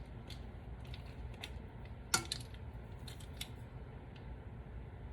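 Kitchen handling sounds while a teaspoon of vanilla extract is measured out: scattered light clicks and taps of a bottle and utensils, with one sharper clink about two seconds in, over a low steady hum.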